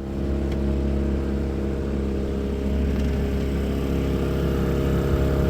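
A Mainland 20 cruiser's engine running steadily while the boat cruises along the canal, a constant low drone.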